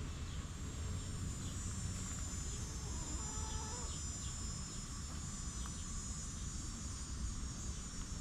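Chickens clucking softly over a steady high-pitched insect drone, with a short hen call about three seconds in and faint bird chirps.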